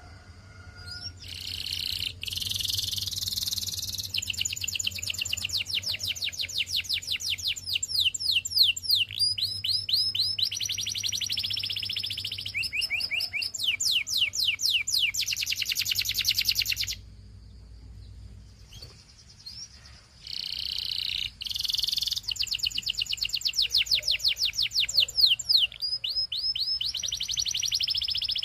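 Canary singing in two long bouts of fast, repeated high trills and rattling phrases, with a pause of about three seconds in the middle.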